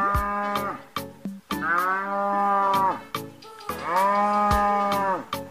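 A cow mooing: three long moos about two seconds apart, each dropping in pitch at the end, over background music with a steady beat.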